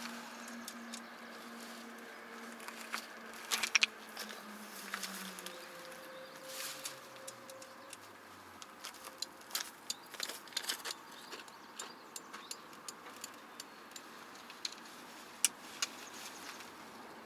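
Scattered light clicks and clinks, like small metal gear being handled, loudest in a quick cluster about four seconds in. Under them, a low hum slides down in pitch and fades out about halfway through.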